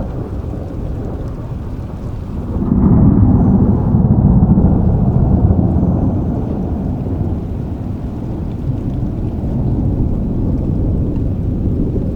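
Steady rainfall with a deep rolling rumble of thunder that swells about three seconds in and slowly fades away.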